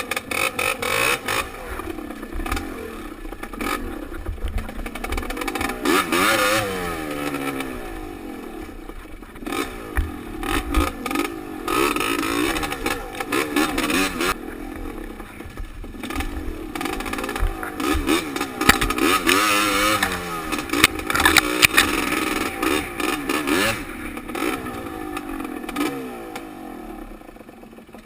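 Dirt bike engine heard from the rider's helmet, its pitch rising and falling again and again as the throttle opens and closes on the trail, with clatter and knocks from the bike going over rough ground. The engine fades away near the end.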